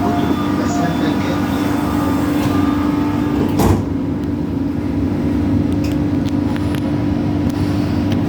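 Metro train cabin hum: a steady electrical tone over running noise. A single knock comes about three and a half seconds in, after which the high hiss drops.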